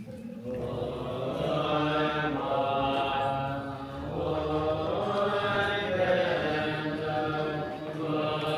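Buddhist mantra chanting: voices intoning in long held, slowly gliding tones over a steady low drone.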